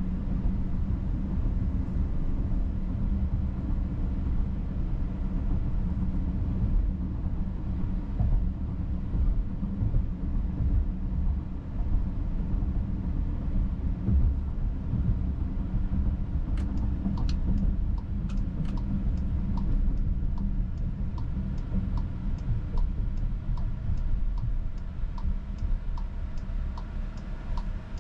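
Low, steady road and engine rumble heard from inside a 2022 Volkswagen Atlas cabin while driving. Past the middle come a few sharp clicks, then a steady ticking of about one and a half to two a second, like the turn-signal indicator.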